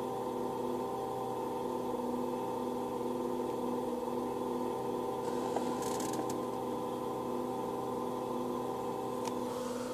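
Opel Astra G air conditioning making an unusual steady hum with several constant tones over one another. A brief rustling noise comes about five to six seconds in and again near the end.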